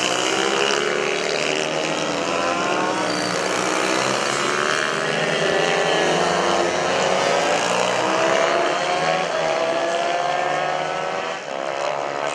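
Several racing mini-bike engines running together, their overlapping pitches rising and falling as the riders rev and shift through the laps.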